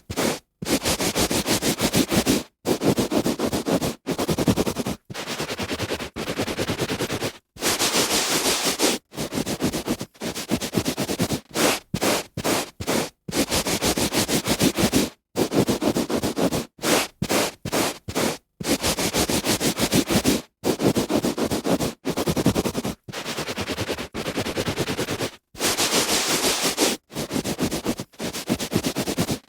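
A hand rubbing back and forth on a carpet, a coarse brushing noise in irregular strokes, some short and quick and some about a second long, with brief silent breaks between them.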